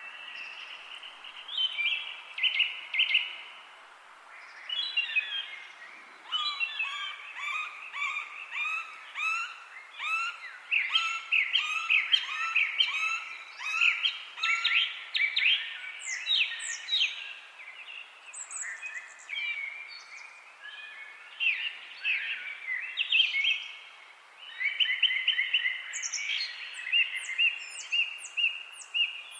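Forest birds chirping and singing in quick runs of short notes and trills, some high notes sweeping downward, over a steady faint background hiss. The song eases off briefly a few times.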